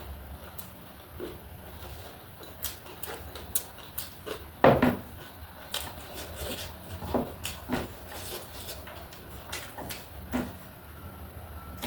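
Close-up eating sounds: irregular small clicks and crunches of chewing and handling food, with one louder knock a little under five seconds in.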